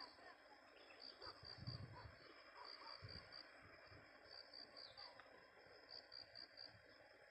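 Insects chirping faintly: high-pitched short pulses in quick runs of several, repeating, with faint low rustles and thumps beneath.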